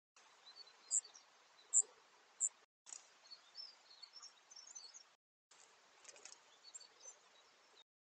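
Wild birds calling over a faint hiss, sped up: three sharp, high calls in the first two and a half seconds, then fainter twittering and a few short clicks. Brief dropouts break the sound where clips are joined.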